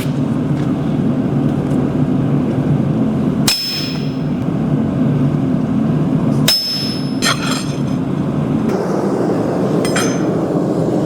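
Four sharp metal clanks on steel in a blacksmith's shop, irregularly spaced, each ringing briefly. A steady low rumble runs underneath.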